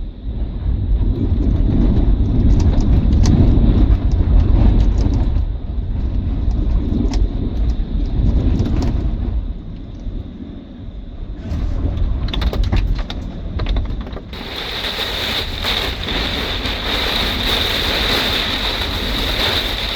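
Severe summer storm: strong wind gusts buffeting the microphone and the motorhome. About fourteen seconds in, a sudden downpour of heavy rain, not hail, starts drumming in a steady hiss.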